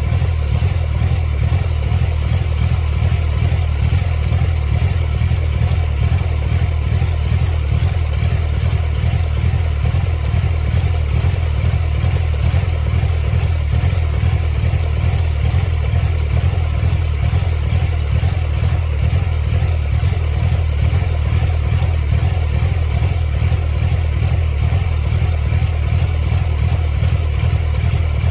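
1999 Mercedes-Benz C230 Kompressor's supercharged four-cylinder engine running steadily with a fast, uneven low pulse. The engine has serious running problems, shown by a flashing check engine light.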